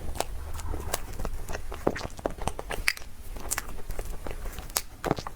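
Close-miked chewing and mouth sounds of someone eating soft dessert: irregular wet smacks and clicks, several a second.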